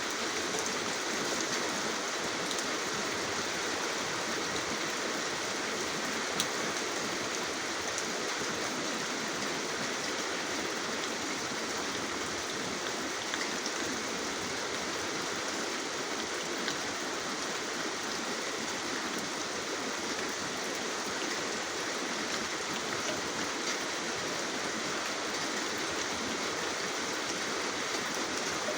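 Steady rain falling in a continuous hiss, with a few sharper drop hits now and then.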